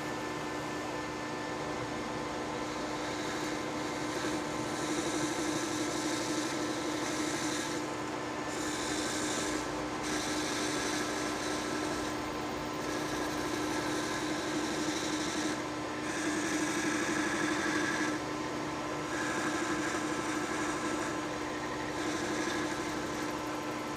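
Metal lathe running steadily with a constant hum, the cutting tool taking a part down, with the cutting noise swelling and easing off several times as passes are made.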